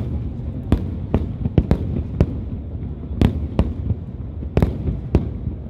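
Fireworks display: aerial shells bursting as about ten sharp bangs at irregular intervals, over a steady low rumble.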